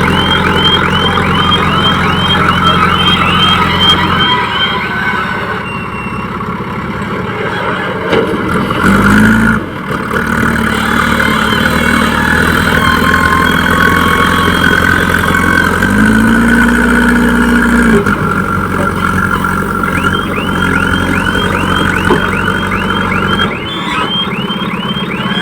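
Diesel engines of heavy machinery running, with an electronic alarm chirping rapidly, about three chirps a second, for the first four seconds and again near the end.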